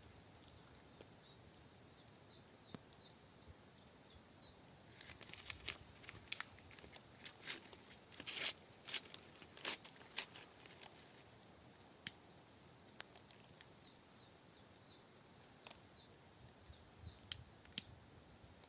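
A faint steady outdoor background with small high chirps, broken from about five seconds in by a spell of rustling and crinkling with sharp crackling clicks, as of something being handled. A few more isolated clicks come near the end.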